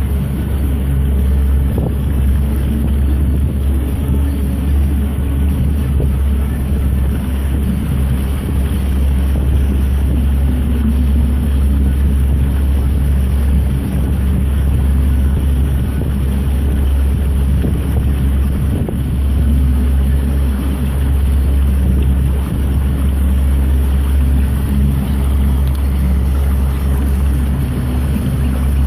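A whelk fishing boat's engine running with a steady low drone as the boat moves along, mixed with wind buffeting the microphone.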